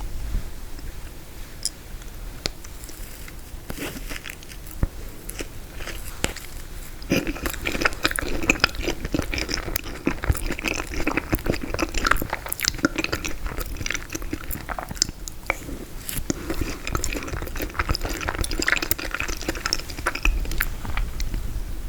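Close-miked chewing and biting of frozen tiramisu, with crisp crunching clicks from the frozen cake. The clicks are scattered at first and grow dense about a third of the way in.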